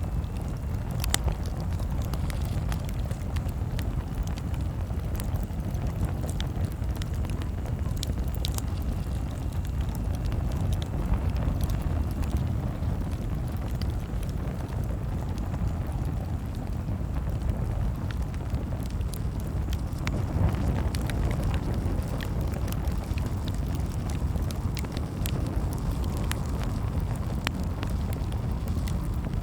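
Campfire crackling: scattered sharp snaps and pops over a steady low rumble of burning.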